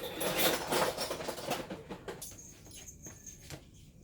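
Irregular scratchy rustling and scrabbling, busiest in the first two seconds and then fading, with a faint steady high whine from about halfway.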